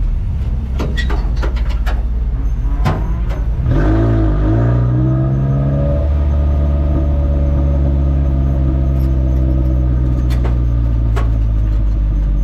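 Spec Ranger race truck's engine running, with rattling clicks and knocks over a rough rumble for the first few seconds, then settling into a steady low idle about four seconds in.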